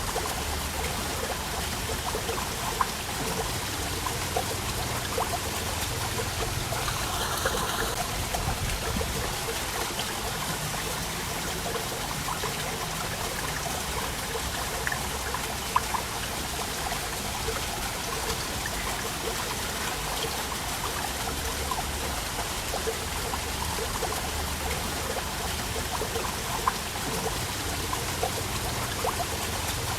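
Waterfall: water pouring and trickling steadily, with occasional sharper drips and splashes.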